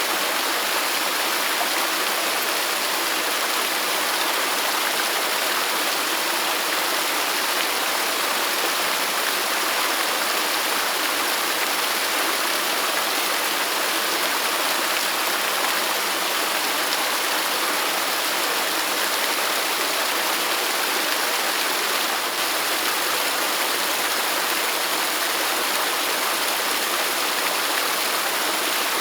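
Waterfall: falling water splashing and rushing in a steady hiss that sits mostly in the middle and high range.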